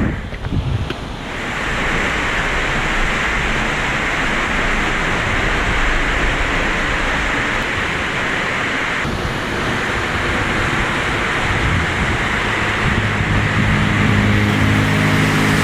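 Henrhyd Falls, a waterfall about 27 metres high, giving a steady rush of falling water. The sound is unsettled for the first second or so, then holds even. Near the end a low, steady hum joins it.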